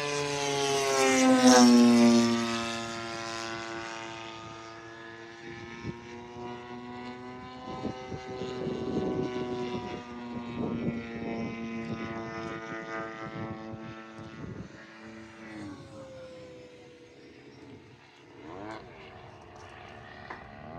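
Radio-controlled model airplane flying by close, loudest about a second or two in with its pitch dropping as it passes. It then drones further off, the pitch drifting up and down, and fades out near the end.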